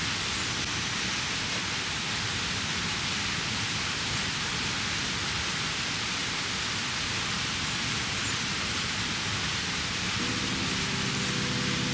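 Mountain stream flowing, a steady rushing of water. About ten seconds in, a low steady hum of several tones joins it.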